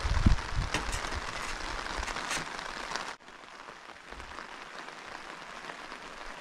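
Rain pattering on wet tent fabric as a steady hiss, with a few sharper drop hits in the first three seconds; the sound cuts about three seconds in and goes on quieter and more even.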